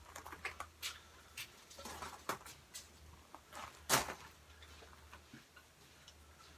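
Faint scattered clicks and light knocks, with one sharper knock about four seconds in, over a low steady hum.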